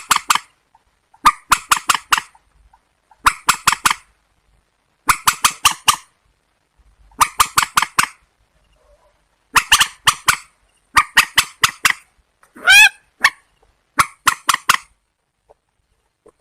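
Rail calling: harsh, clipped notes in quick bursts of three to five, repeated roughly every two seconds, with one wavering, rising call about two-thirds of the way through.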